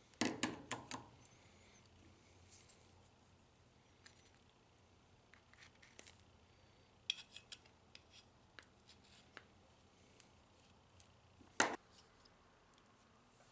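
Clicks and knocks of the gears and small parts of a vending machine's rotor gearbox being handled during re-greasing and reassembly: a short clatter at the start, scattered light ticks, and one sharper knock near the end.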